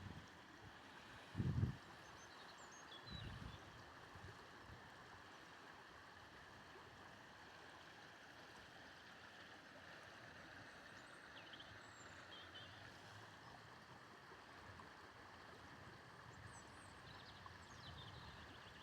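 Faint steady outdoor background rush with a few faint high chirps. Two low thumps come a second or two in, the first the loudest.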